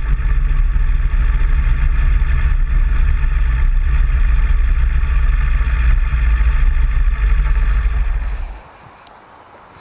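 Motorcycle engine running steadily at a constant speed, then stopping abruptly about eight seconds in, leaving a quiet outdoor background.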